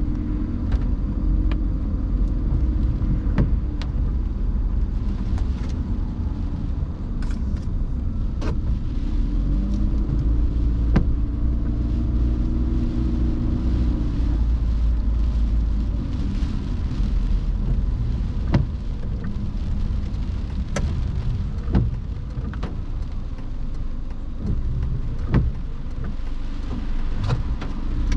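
Car driving on rain-wet roads: a steady low engine and road rumble with a hiss of tyres on wet pavement, and scattered sharp ticks now and then.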